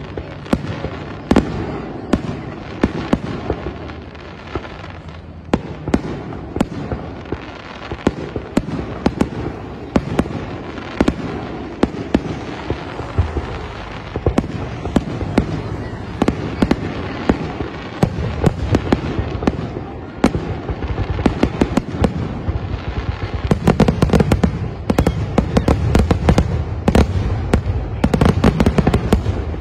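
Fireworks finale: aerial shells bursting one after another in a continuous barrage of bangs. The bangs come thicker and louder about three-quarters of the way through as the barrage builds.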